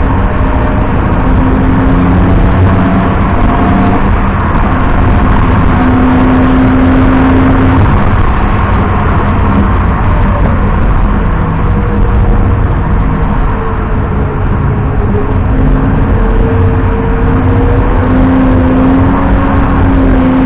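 BMW 330i E90's straight-six engine driven hard, its note climbing, falling away and climbing again as the car accelerates and lifts, under heavy steady road and wind noise.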